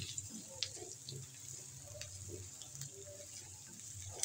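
Chopped onion, ginger-garlic and ground spices sizzling in ghee in a frying pan, with a spatula stirring through the masala and a few faint ticks.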